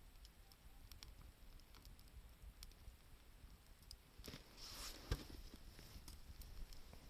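Faint campfire crackling, a scatter of small sharp pops and ticks. About four seconds in, a brief louder rush of noise rises and ends in a dull thump.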